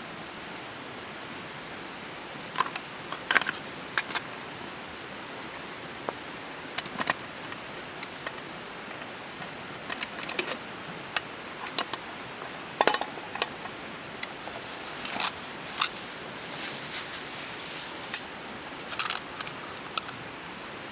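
Camp gear being handled: scattered metallic clicks and clinks, a dozen or so at irregular intervals, with a stretch of rustling near the end, over a steady hiss.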